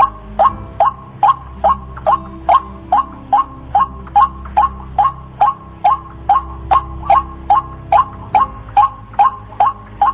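White-breasted waterhen (ruak-ruak) calling: short sharp notes repeated rapidly and evenly, about two and a half a second, over a faint low hum. It is the call used as a lure to draw the birds in.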